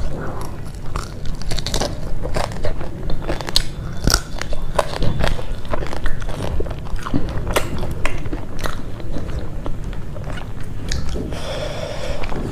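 A person chewing food, with irregular crunches and mouth clicks throughout.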